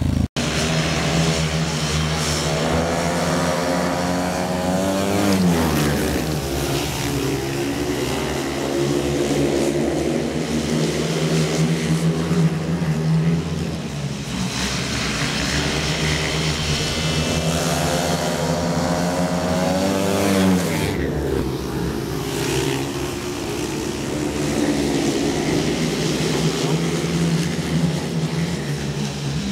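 Speedway motorcycles' 500 cc single-cylinder methanol engines running. Their pitch climbs and then drops sharply twice, about five and twenty seconds in, as the throttle is opened and shut.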